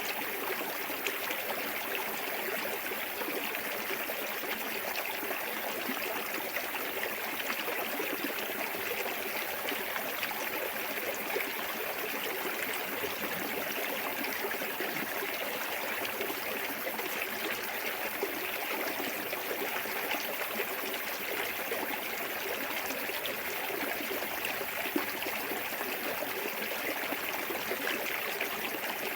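Small woodland waterfall and clear stream running steadily, an even rush of water splashing over rocks.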